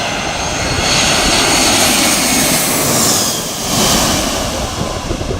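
Air France Airbus A340-300's four CFM56 turbofan engines, loud and close, with a high whine that falls in pitch about three seconds in as the jet passes.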